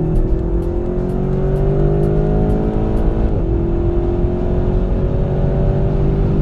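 Volkswagen Golf GTI Clubsport's turbocharged 2.0-litre four-cylinder engine accelerating, heard from inside the cabin, its pitch climbing steadily. About three seconds in the pitch drops sharply at an upshift, then climbs again.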